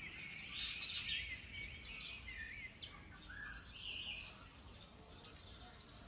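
Small bird chirping: a series of faint, short, high chirps and twitters that thin out after about four seconds, over low background noise.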